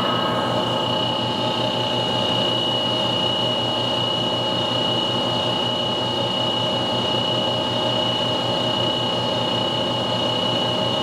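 Gardner Denver ESKAE 60 hp air-cooled rotary screw air compressor running steadily, with a constant high-pitched whine over the machine noise.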